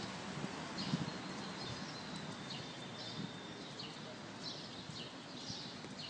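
Small birds chirping in short repeated calls, with one thin whistle held for about a second and a half, over a steady outdoor hiss.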